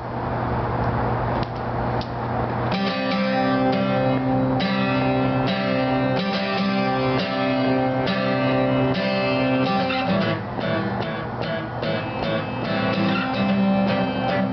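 A hiss with a steady low hum, then strummed guitar chords start about three seconds in and ring on as the opening of a song, with no singing.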